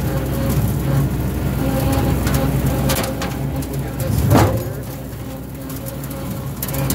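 Small tractor engine running steadily, with a louder noisy burst about four seconds in, after which it runs somewhat quieter until near the end.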